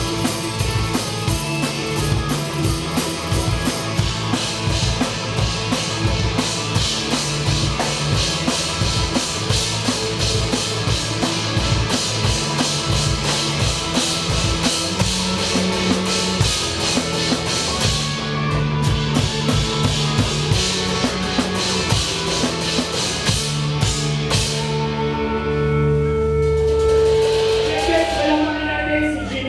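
Live rock band playing, heard from beside the drum kit, with loud, busy drumming over guitar and bass. Near the end the drumming stops and the band holds a final chord that rings out and fades.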